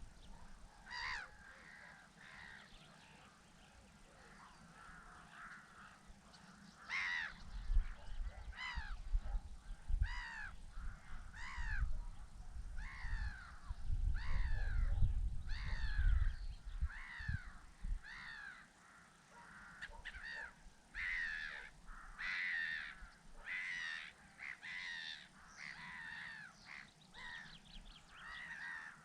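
Birds calling repeatedly: short, falling caw-like calls at about one a second, becoming denser and overlapping from different birds in the second half. A low rumble of wind on the microphone runs through the middle stretch.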